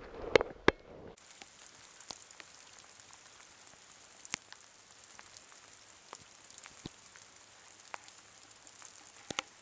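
Rain falling, a steady hiss with scattered ticks of single drops. A couple of sharp knocks come in the first second, before the rain sound sets in abruptly.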